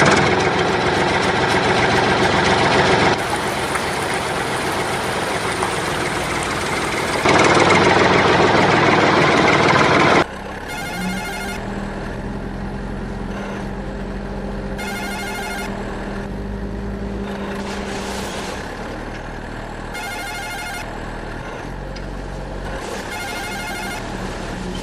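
Tractor engine running, loudest for a few seconds until it drops off sharply about ten seconds in. After that comes a quieter steady hum, with a short high-pitched ringing tone every four or five seconds.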